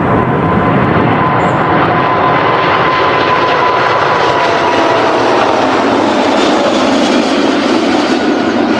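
Airplane engine sound effect: a loud, steady engine noise with a faint high whine that slowly falls in pitch.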